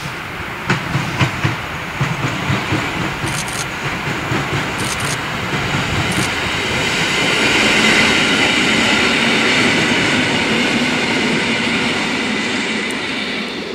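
Electric multiple unit passing on the track: a quick run of wheel clacks in the first couple of seconds, then a steady rolling rumble and hiss that builds to its loudest about halfway through and eases slightly near the end.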